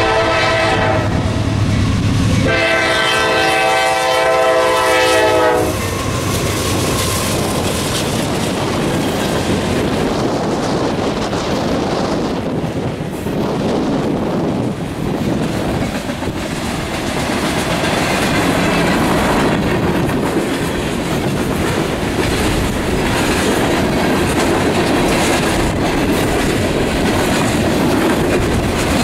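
CSX freight locomotive's air horn sounding at a grade crossing: one blast ends about a second in, then a longer blast of about three seconds follows, over the diesel engine's low drone. Then the freight cars roll steadily past with wheels clattering over the rail joints.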